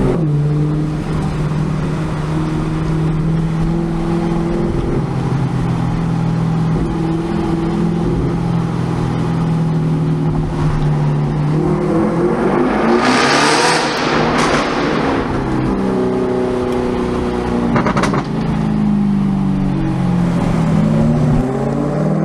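Audi RS6 Performance twin-turbo V8 with a titanium Akrapovic exhaust, running in a tunnel. The engine note holds steady for the first half, then a loud rush of noise comes about 13 seconds in, a single sharp crack follows about 18 seconds in, and the revs rise again near the end.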